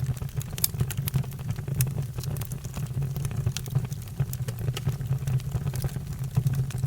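Fire crackling, with frequent sharp irregular pops and snaps over a steady low roar.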